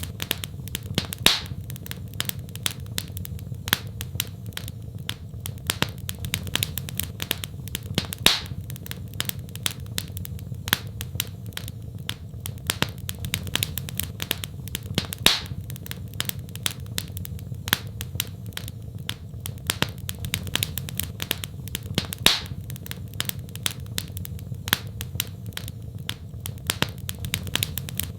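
Wood fire crackling: many small snaps, with a louder pop about every seven seconds, over a steady low rumble.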